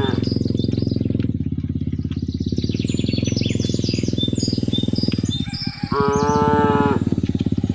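A small engine runs steadily with a fast pulsing beat while birds chirp. About six seconds in, a cow gives one drawn-out moo lasting about a second.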